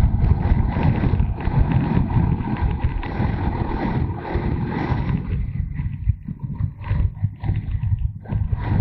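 Motorcycle on the move: a dense, irregular low rumble of engine and wind buffeting on the microphone. The higher part of the noise thins out after about six seconds.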